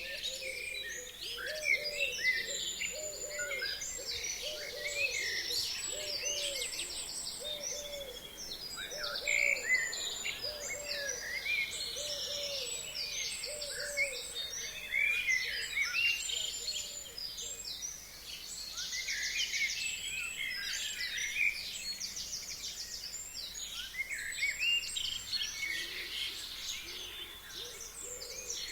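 A chorus of forest songbirds: overlapping whistled phrases and fast high trills, with songs following one after another. Under them, for the first half, a bird gives a low hooting note over and over, about once a second, then stops.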